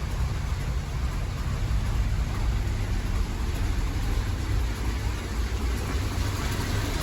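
1966 Ford Thunderbird's V8 idling steadily after a cold start, nice and quiet.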